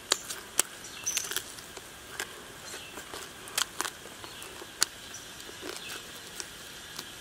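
Close-up eating sounds: irregular lip smacks and small crunches as someone chews and nibbles the small bones of a cooked frog, over a faint steady background hiss.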